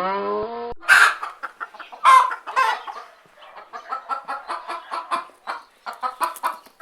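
The end of a cow's moo in the first second, then chickens: two loud squawks, followed by fast, steady clucking.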